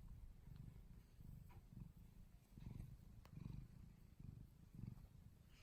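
A dozing domestic cat purring faintly, the purr swelling and easing with each breath about once a second.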